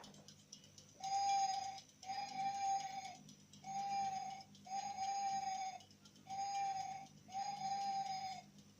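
A steady, whistle-like tone with a slight drop in pitch at the end of each note, sounded six times in three pairs of notes each just under a second long, over a faint light crackling and ticking.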